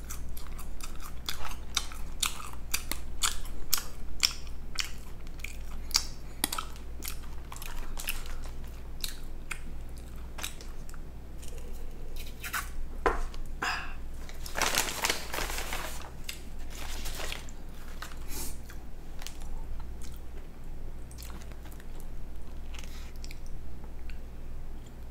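Close-miked chewing and mouth sounds of a person eating, many short wet clicks, with a longer noisy stretch about fifteen seconds in and a steady low hum beneath.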